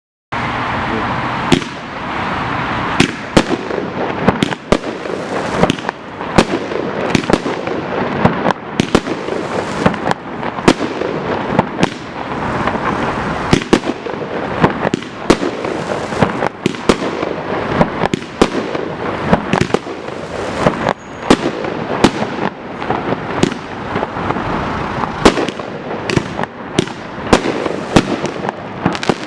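High-altitude fireworks display: a dense, continuous barrage of shell bursts and crackle, with many sharp loud bangs rising out of it, starting abruptly just after a moment of silence.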